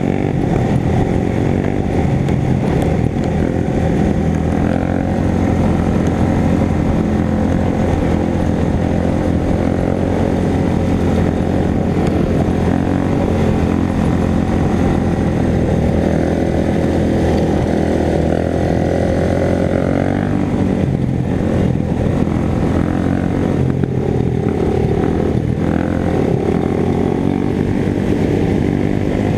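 Motorcycle engine running steadily under way, its pitch climbing for a few seconds about halfway through as it speeds up.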